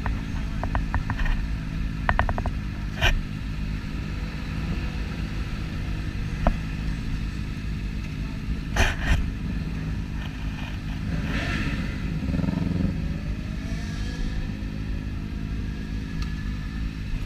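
Motorcycle engines running at idle as a group of bikes gets ready to move off, with a few sharp clicks. Near the end one engine note slowly rises.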